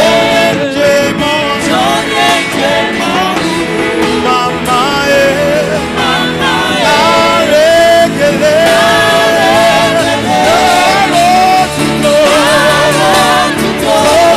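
Live gospel band music, with a singer's voice holding long notes and sliding between them over the accompaniment.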